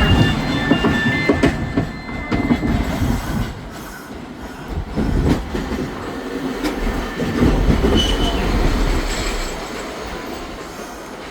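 Hakodate City Transportation 8000-series tram running on street track: wheels rumbling on the rails with irregular knocks, and short high-pitched wheel squeals in the first couple of seconds and again about eight seconds in.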